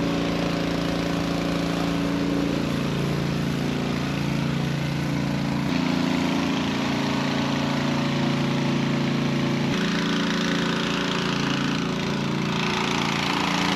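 Small engine running steadily at a constant speed, driving a brine sprayer while brine is sprayed from a hose reel, with a hiss over the engine. The sound changes abruptly twice.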